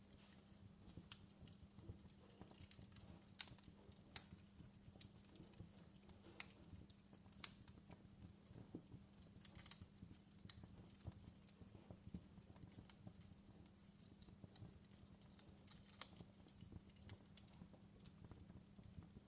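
Faint fireplace fire crackling: irregular sharp pops and snaps over a steady low crackle.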